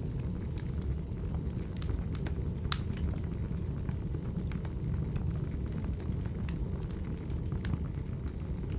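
Wood fire burning: a steady low rumble with scattered sharp crackles and pops from the burning logs, the loudest nearly three seconds in.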